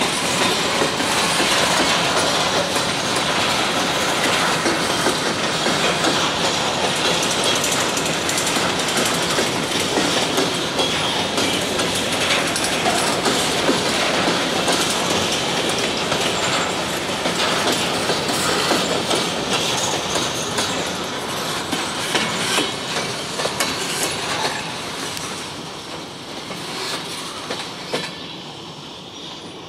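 Covered hopper cars of a freight grain train rolling past over a grade crossing, their wheels clacking over the rail joints amid a steady rumble and rattle. The sound fades over the last few seconds as the train moves off.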